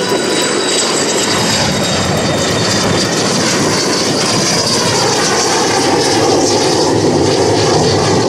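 Aero L-39 Albatros jet trainer's single turbofan engine running at full power as the aircraft flies by, a loud steady jet noise with high whining tones.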